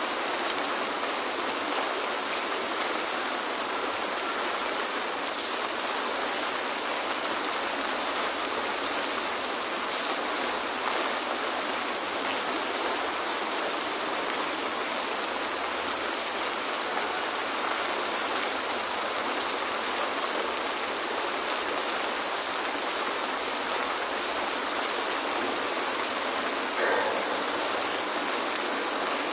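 Steady rain falling and splashing on hard surfaces in an enclosed courtyard, an even hiss with scattered drops standing out. There is a brief louder splash about 27 seconds in.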